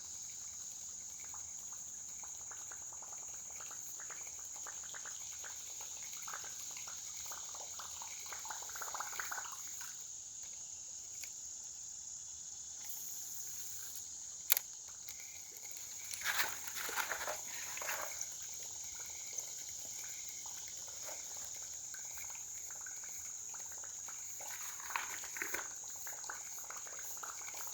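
Steady high-pitched chorus of crickets, with a few short bursts of water gurgling and splashing over it and a single sharp click about halfway through.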